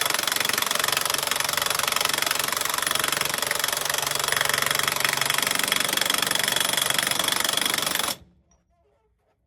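Impact wrench hammering continuously as it runs a new pinion nut up tight on the yoke, loud. It stops suddenly about eight seconds in, with the nut good and tight.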